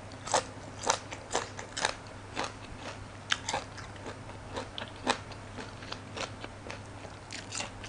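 A person eating close to the microphone: crisp bites and chewing of raw green vegetables, with sharp crunches coming irregularly about once or twice a second.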